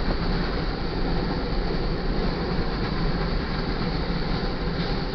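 Iron ore train's freight cars rolling past at a grade crossing: a steady rumble and rolling noise of steel wheels on rail.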